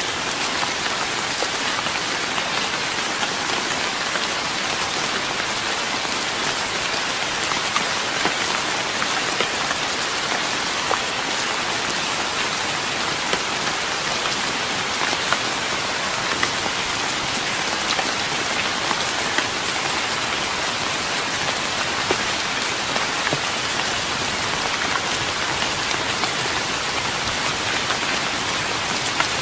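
Steady rain falling on a wooden deck, an even patter with scattered louder drops ticking on the boards.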